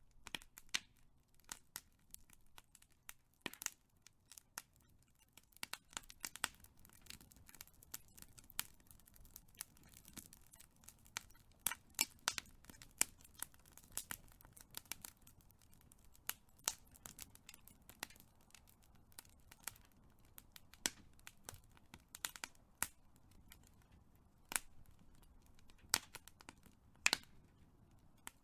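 Big wood fire crackling: irregular sharp pops and snaps, several a second, over a faint low rumble of burning.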